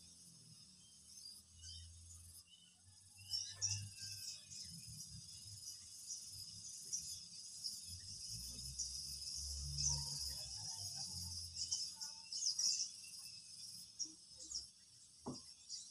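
Insects chirping steadily at a high pitch, with irregular low rumbles now and then.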